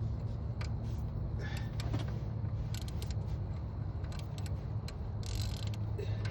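Metal hand tools clicking and clinking as a wrench works a truck bolt loose. Short scattered clicks sit over a steady low hum.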